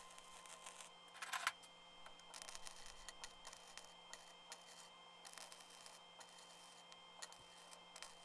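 Flux-core wire-feed welder arc-welding square steel tubing: a faint crackling sizzle that starts and stops in short spells as tack welds are laid, with a louder, sharper burst about a second and a half in.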